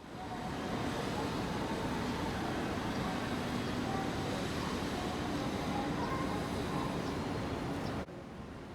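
Busy street ambience: steady traffic noise with scattered voices, which cuts off suddenly about eight seconds in.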